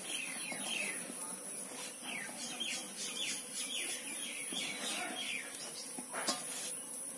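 A bird calling in quick runs of short falling chirps, over a steady thin high tone. A brief knock sounds near the end.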